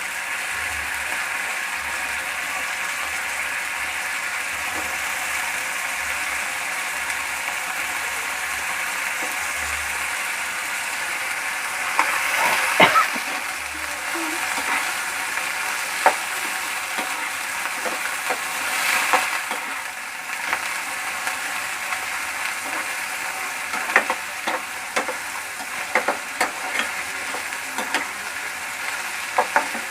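Yogurt masala sizzling in oil in a kadai, with the oil separating out of the yogurt as it fries. Fried chicken pieces are being stirred in, with a spatula clattering and scraping against the pan in bursts from about twelve seconds in.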